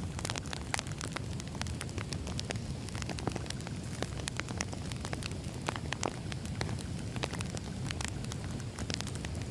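Firewood burning, with irregular sharp crackles and pops over a steady low rumble of the flames.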